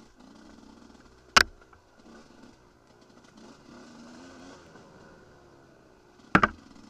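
Off-road motorcycle engine running, its pitch rising and falling with the throttle, with two sharp, loud knocks: one about a second and a half in and one near the end.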